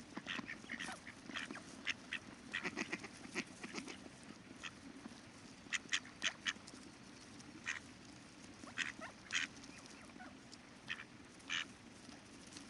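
Ducks quacking in short, scattered calls, several in quick runs, over a steady low rush of river water.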